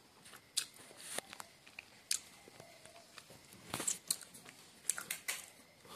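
A person chewing a bite of steamed chicken momo, with irregular short wet smacks and clicks of the mouth.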